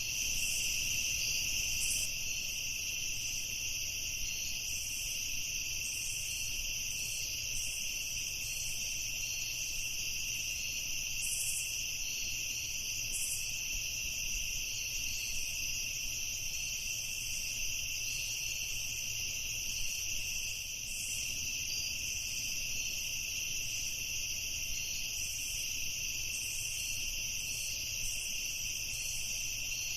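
Crickets chirping at night in a continuous, steady chorus, with a few higher, shorter insect trills flickering over it.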